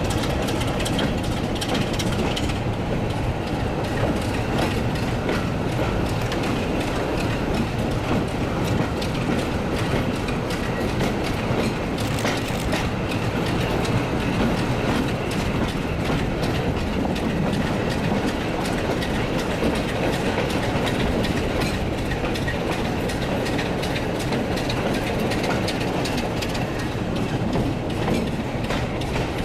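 Diesel-hauled train running along the line: a steady rumble of engine and wheels with the clickety-clack of wheels over rail joints.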